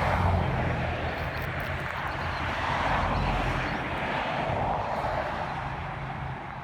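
Road traffic going by: a broad rush of tyres and engines that swells twice, near the start and about three seconds in, then slowly fades.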